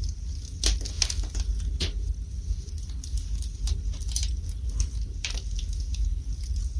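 Wood fire burning in a fireplace: irregular sharp crackles and pops, several close together about a second in and another near five seconds, over a steady low rumble.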